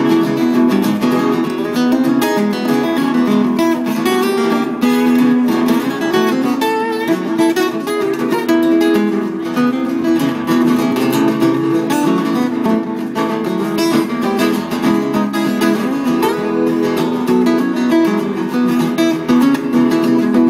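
Acoustic guitar playing an instrumental break, with busy picked and strummed notes at a steady pace.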